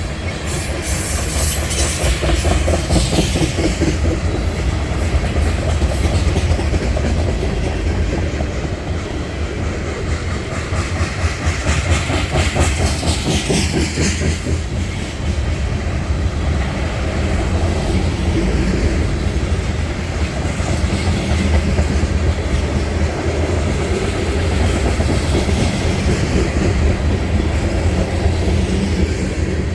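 Train cars rolling slowly past, wheels clicking over the rail joints over a steady low rumble, with a couple of brief higher-pitched wheel noises.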